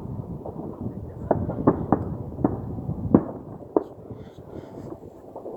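New Year's fireworks going off: a string of sharp bangs, about seven in a few seconds with the loudest about three seconds in, over a steady background rumble of more fireworks.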